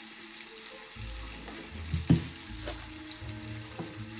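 Chicken fillets frying gently in olive oil in a pan, a steady faint sizzle, with one sharp knock about two seconds in and a few lighter clicks of kitchen utensils.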